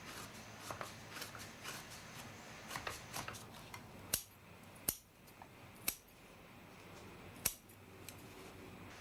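Scissors snipping the ends of braided cord: light clicking and handling, then four sharp snips spaced about a second apart in the second half.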